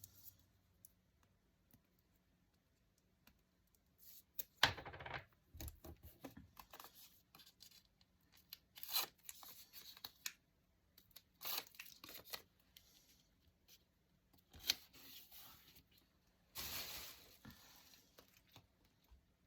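Paper being torn and handled in short bursts: a quiet start, then several brief tears and rustles, the longest one about three-quarters of the way through.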